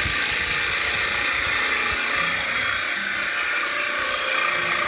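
Bowl gouge taking a steady finishing cut on the outside of a blue mahogany bowl spinning on a wood lathe, its bevel riding the wood: a continuous, even hiss of wood being sheared.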